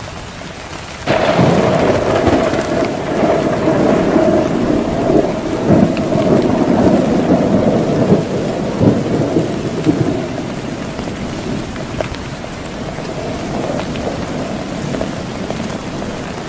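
Heavy rain falling steadily. About a second in, thunder breaks suddenly and loudly and rumbles on for around nine seconds before fading back under the rain.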